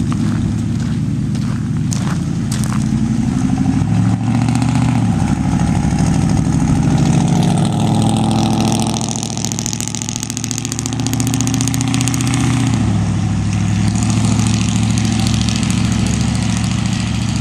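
Straight-piped 350 V8 of a 1997 Chevy K1500 Z71 on true dual exhaust pulling away under light throttle. Its note climbs in pitch and drops back three times as it shifts up through the gears.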